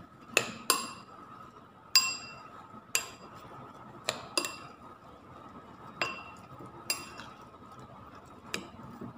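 A spoon clinking against a bowl as pieces of beef lung are mixed with oil and spices: about nine sharp, ringing clinks at irregular intervals.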